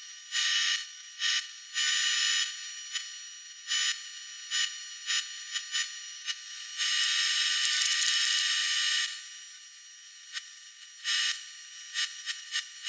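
TIG welding arc from a Miller 280DX welder on aluminium engine cases, buzzing high-pitched in repeated bursts as the arc is struck and broken, the longest lasting about two seconds just past the middle.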